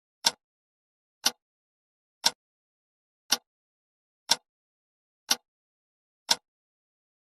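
Countdown timer ticking sound effect: seven sharp ticks, one each second, with silence in between.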